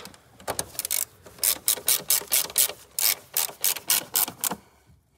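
Hand ratchet with a Torx bit clicking as it tightens a Torx screw on the engine cover, a steady run of sharp clicks at about four or five a second that stops near the end.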